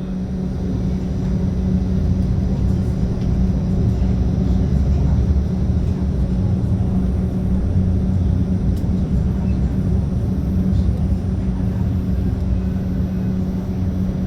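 Modern tram running between stops, heard from inside the car: a steady low rumble of wheels on the rails with a constant low hum over it.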